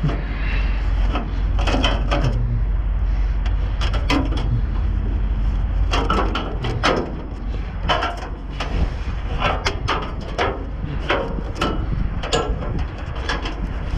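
Junk being shifted and rummaged through in a dumpster: a run of irregular knocks, clatters and scrapes of objects striking one another, over a steady low rumble.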